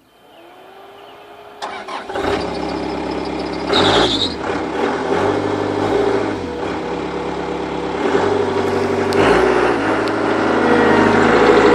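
Caterpillar 287C skid steer loader's diesel engine being started: a short rising starter whine, then the engine catches about two seconds in and runs, its speed shifting a few times and rising near the end. A short high tone sounds about four seconds in.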